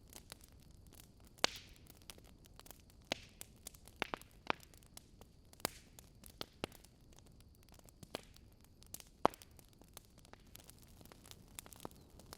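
Burning wood logs crackling and popping: irregular sharp snaps over a faint steady hiss, with the loudest pops about one and a half seconds in and about nine seconds in.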